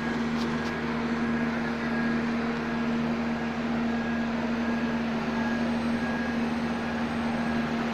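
An engine running steadily at constant speed, a low even hum with no revving.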